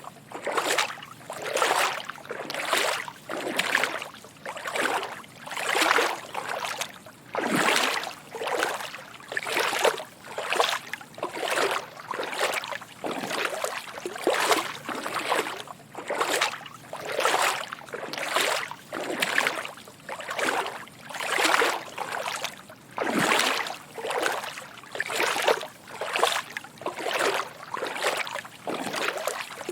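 Footsteps wading through shallow water, each step a soft slosh and splash, in a steady walking rhythm of about one step a second.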